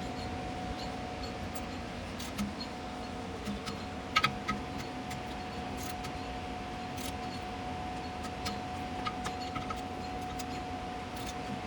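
Hand tools clicking on metal as engine bolts are torqued with a click-type torque wrench. There is a sharp double click about four seconds in and scattered lighter ticks, over a steady hum with a faint high tone.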